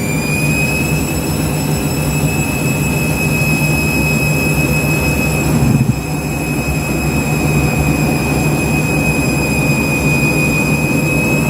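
Washing machine spinning up: its motor whine climbs and settles at a steady high pitch about a second in, over a low drum rumble, with a brief thump about six seconds in. The drum is packed with suds from double the detergent, a suds lock.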